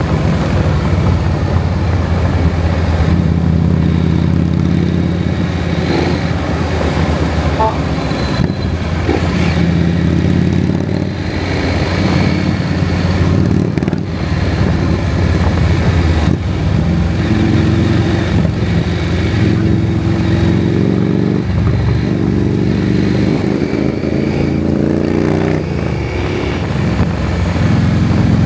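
KTM 790 Adventure's parallel-twin engine running under way, its note climbing and dropping several times as the bike accelerates and changes gear, over a steady rush of riding noise.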